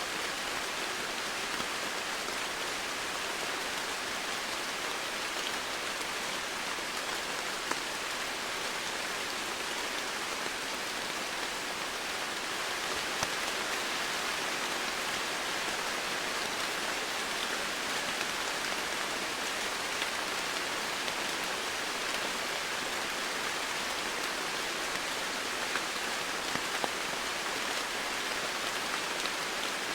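Steady rain falling on foliage and surfaces, an even hiss with occasional distinct drop hits standing out.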